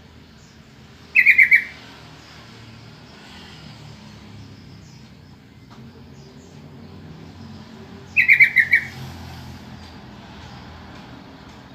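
Sooty-headed bulbul (trucukan) calling: two short bursts of four or five quick bright notes, about seven seconds apart, over faint background noise.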